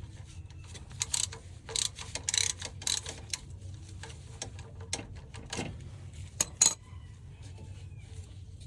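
A 3/8-inch drive ratchet clicking in irregular runs as the oil filter is unscrewed with a cap-type filter socket, with a steady low hum underneath.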